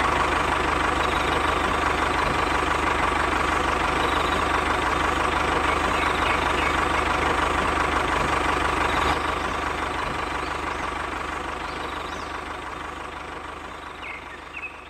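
Tractor engine idling steadily, fading away over the last five seconds or so.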